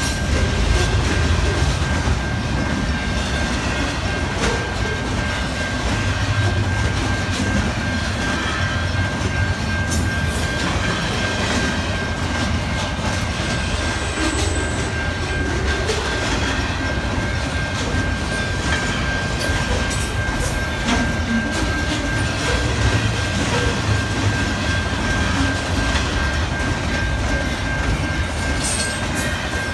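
A train rolling steadily past at close range: a continuous low rumble of wheels on rail, with scattered clicks and a thin steady high whine.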